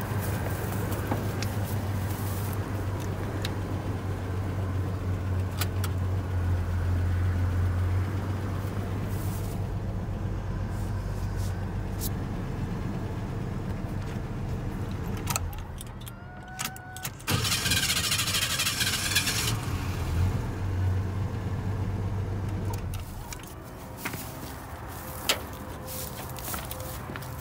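Small Chevy S-10/GMC S-15 pickup's engine running at a steady idle with scattered light clicks; past the middle it drops away for about two seconds, then there is a couple of seconds of hiss and it runs again, fading lower near the end.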